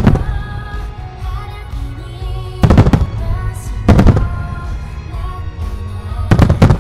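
Large aerial firework shells bursting in a row of loud booms, one at the start, a couple about three seconds in, one at four seconds and a quick double near the end, over a pop song playing.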